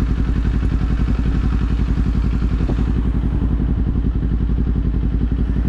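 Kawasaki Z400 parallel-twin engine running at a steady cruising speed, with a strong low wind rumble over the microphone in high winds.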